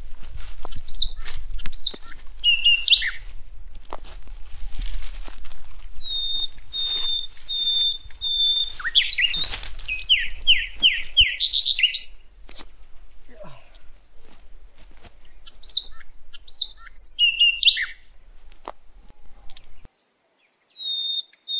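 Small birds chirping and calling in short repeated notes and quick trills, over a steady high thin tone and a low rumble. The sound cuts off sharply about twenty seconds in, and chirping starts again soon after.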